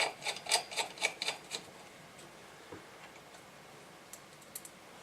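Small screws and a screwdriver clicking against the radio's chassis while screws are fitted back in: a quick run of sharp metallic clicks for about a second and a half, then a few faint ticks.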